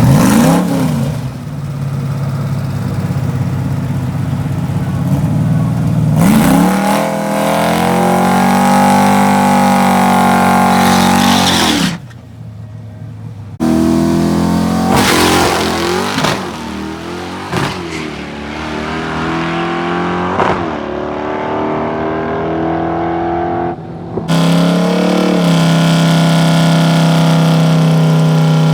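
Fox-body Mustang's 5.0 V8, its exhaust dumped behind the doors through bullet mufflers, revving and running hard on a drag strip. The sound drops away abruptly about twelve seconds in and again briefly near twenty-four seconds, then comes back as a steady engine note.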